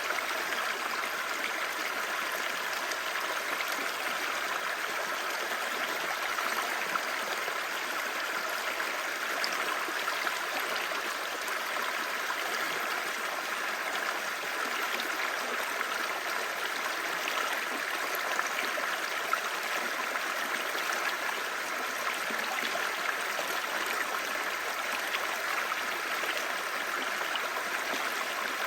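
Clear mountain stream babbling: a steady, even rush of flowing water.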